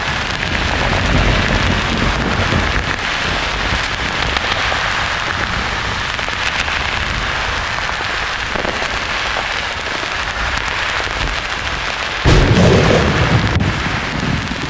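Steady hiss of white noise mixed with rain, with thunder rumbling low near the start and a sudden loud thunderclap about twelve seconds in that rolls on to the end.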